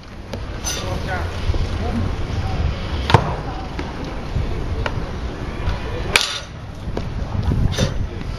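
Baseball bat striking balls during tee batting: two loud, sharp cracks about three seconds apart, with fainter hits in between, over a low background murmur of voices.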